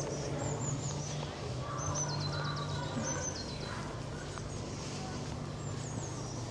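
Small birds chirping, with a quick run of repeated high notes stepping down in pitch about two seconds in. A low steady hum and indistinct voices sit underneath.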